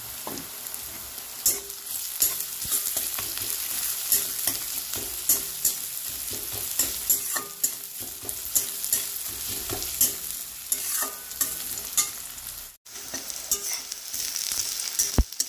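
Sliced onion, garlic and green chillies sizzling in hot oil in a kadai, stirred with a metal spatula that scrapes and clicks against the pan. The sound stops for an instant late on.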